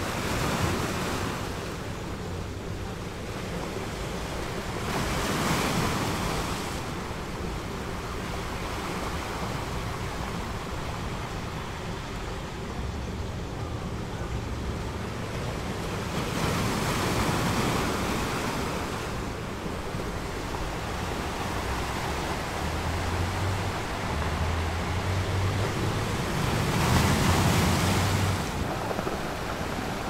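Ocean surf: waves washing in and drawing back, the hiss swelling four times as waves break.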